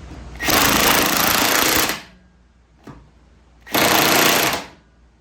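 Impact wrench hammering in two bursts, the first about a second and a half long and the second about a second, with a short gap and a small click between them.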